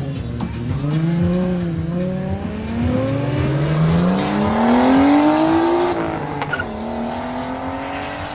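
A car accelerating hard away: its engine note climbs steadily in pitch for about five seconds, then drops suddenly near the end as the driver shifts or lifts, and carries on at a lower, steadier note.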